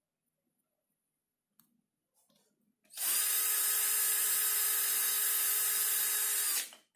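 Small electric motor switched on, running at a steady high whine for about four seconds, then switched off and spinning down. A few light clicks come before it starts.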